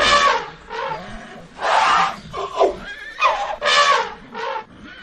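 Horse whinnying: a run of short calls that fall in pitch.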